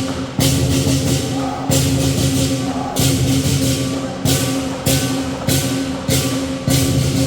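Lion dance percussion: a large drum beating steadily under repeated crashes of hand cymbals, the crashes coming about every second at first and then closer together.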